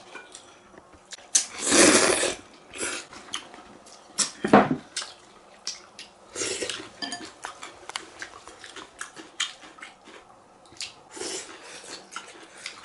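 Two people eating noodles from one large basin: chopsticks clicking and scraping against the bowl, with a few louder slurps.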